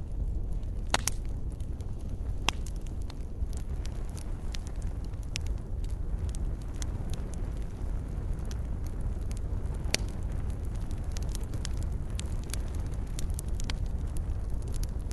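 Fireplace fire crackling: scattered sharp pops over a steady low rumble of the flames. A few louder pops stand out, the sharpest about ten seconds in.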